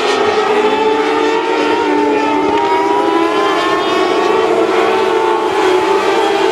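Several mini sprint race cars' engines running together on the dirt oval, a mix of steady engine notes with one slowly rising in pitch.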